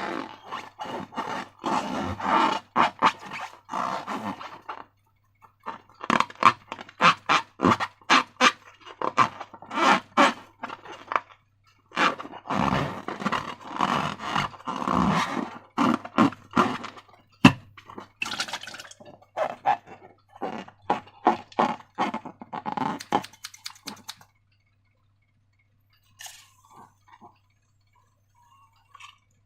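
Slime being handled: rapid sticky crackles and squelches in runs of several seconds, dying away to a few faint ones near the end.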